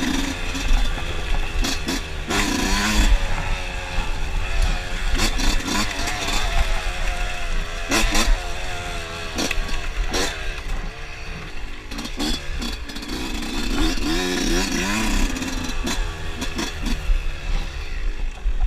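Dirt bike engine running, its revs rising and falling repeatedly, with scattered sharp knocks and rattles over it.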